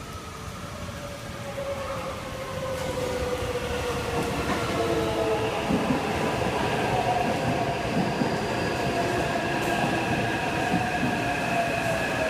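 Taipei MRT train pulling into the station and slowing. Its motors whine in several tones that slowly fall in pitch, growing louder over the first few seconds as it comes in, then holding steady.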